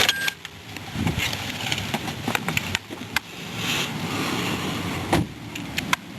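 A 2006 Toyota Corolla's engine is switched off just after the start, with a brief single-tone chime. Scattered clicks and knocks from handling the car follow.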